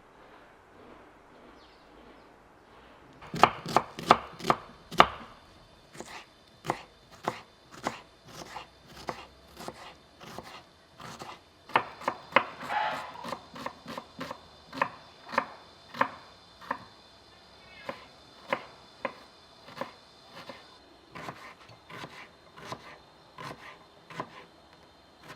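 Knife chopping food on a cutting board, starting about three seconds in with a quick run of loud strokes, then steady chops about twice a second.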